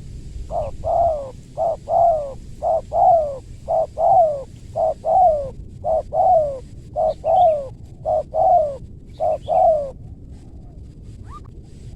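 Spotted dove cooing in a steady run of about nine paired notes, each a short coo followed by a longer falling one, roughly one pair a second, and then it stops. Faint small-bird chirps sound behind it.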